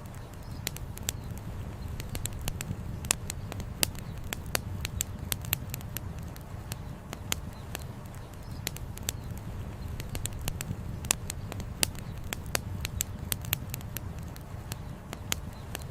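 Campfire with burning firewood crackling in frequent, irregular sharp pops, over a steady low rumble.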